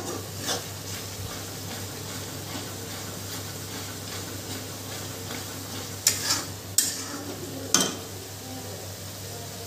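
Ground onion-tomato masala paste sizzling steadily as it fries in a kadai, with a metal spatula scraping across the pan about five times, mostly between six and eight seconds in.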